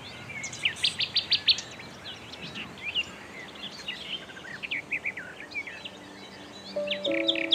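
Several small birds chirping and calling over a steady outdoor hiss, including a quick run of about six sharp notes about a second in. Near the end a steady low humming tone sets in under the birdsong.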